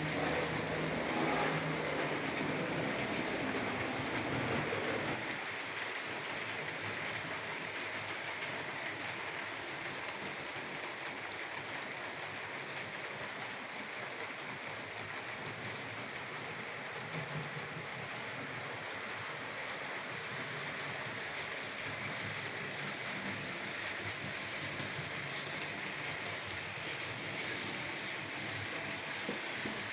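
H0 scale model trains running on the layout track: a steady rolling, whirring hiss, louder and fuller for about the first five seconds, then quieter and even.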